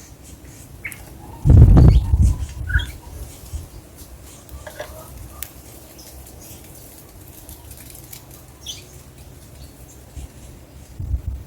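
Small songbirds giving scattered short chirps, with a loud burst of low thumps about a second and a half in and a smaller one near the end.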